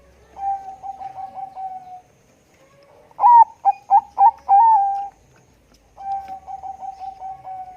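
Zebra dove (Bangkok perkutut) cooing: a fast run of soft coos, then a louder phrase of about five coos a second later, then another fast run of coos near the end.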